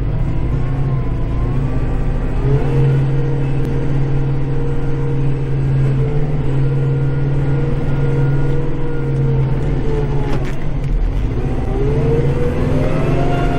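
Kubota tractor's diesel engine running, heard from inside the cab: its pitch rises a couple of seconds in, holds, sags about ten seconds in, then climbs again near the end, with one brief click where it sags.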